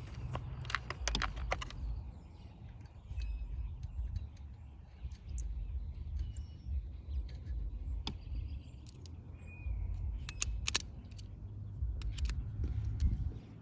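Scattered sharp clicks and clinks of small metal tools and torx bits being handled, with a steady low rumble underneath.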